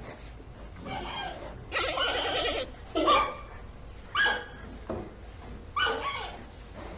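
A dog giving a run of sharp yelping barks, about one a second, each call dropping in pitch.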